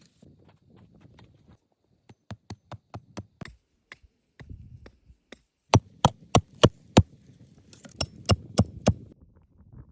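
A hand tool striking wood in rhythmic series of sharp knocks: a run of light taps, then five loud blows about three a second around the middle, and four more near the end.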